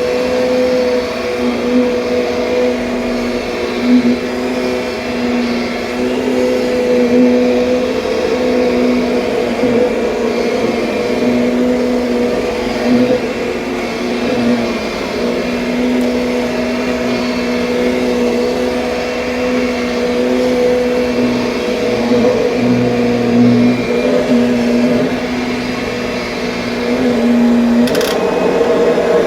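2007 Kirby Sentria upright vacuum cleaner running with a steady motor hum over a rushing of air, wavering a little as it is pushed about. A sharp click near the end, after which the hum shifts.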